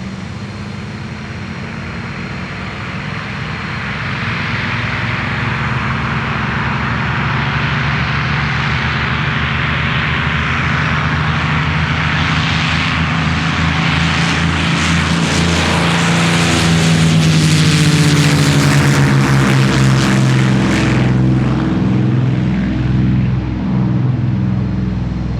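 Merlin V12 piston engine of a World War II fighter running at display power as the aircraft flies in. It grows steadily louder, peaks about three-quarters of the way through, then drops in pitch as it passes by.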